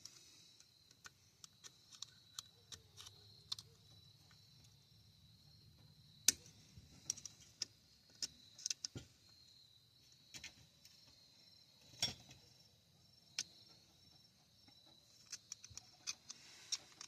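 Small metal parts of a front locking hub being handled and fiddled with: scattered light clicks and taps, the sharpest about 6 and 12 seconds in, over a faint steady high-pitched tone.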